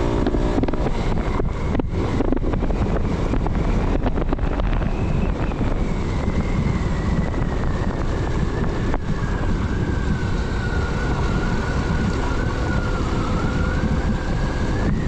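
Motorcycle riding at a steady pace on a dirt road, the engine and wind running as a steady rumble, with a thin high whine that rises a little and then slowly sinks in pitch. A few brief knocks come in, about two seconds in and again near the middle.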